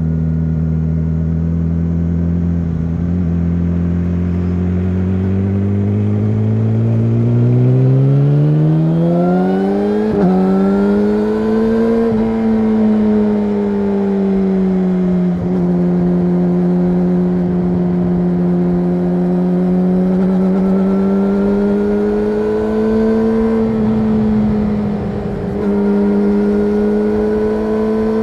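Yamaha YZF-R6 inline-four engine through an SC-Project SC1-R aftermarket exhaust, running under way: the note climbs smoothly for about six seconds, then holds at a steady pitch with gentle rises and falls.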